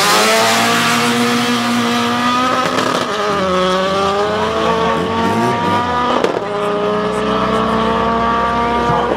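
Hatchback drag car's engine at full throttle, accelerating hard away from the start line of a quarter-mile run; the revs climb, drop sharply at a gear change about three seconds in and again about six seconds in, then climb once more.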